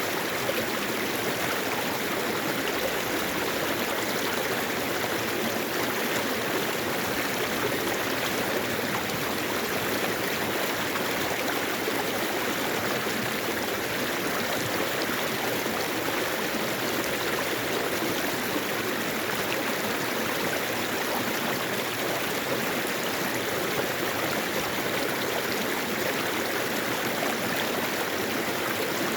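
Mountain valley stream flowing steadily, an even wash of running water that does not change.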